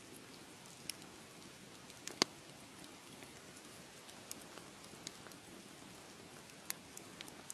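Wood fire crackling: a soft steady hiss with scattered sharp pops, the loudest a little over two seconds in.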